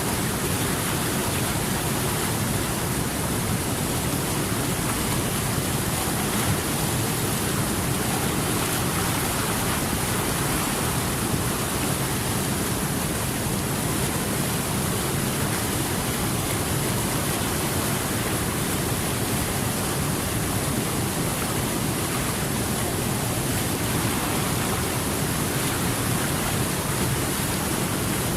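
Water rushing steadily, an even hiss with no surges or breaks.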